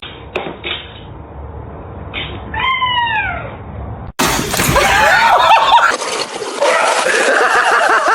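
A cat gives one drawn-out meow that falls in pitch. Then loud, wavering cat yowling with scuffling noise, like cats caterwauling.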